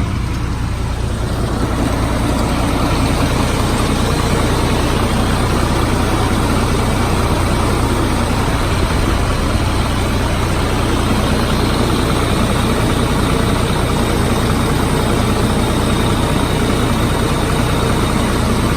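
A 2005 GMC truck engine idling steadily. It sounds smooth and quiet, a sign of a healthy engine with no blow-by.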